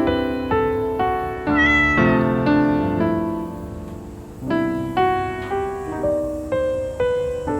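Gentle piano music, single notes struck about twice a second. About one and a half seconds in, a short, high, gliding call, like an animal's cry, sounds once over the music.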